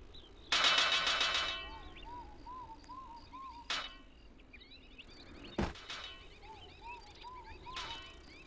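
An anvil struck hard once, ringing loudly and dying away over about a second, followed by three shorter, sharper knocks. Birds sing throughout.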